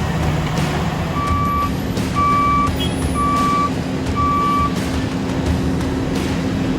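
Dump truck's reversing alarm beeping four times, about once a second, over the steady running of the truck's engine.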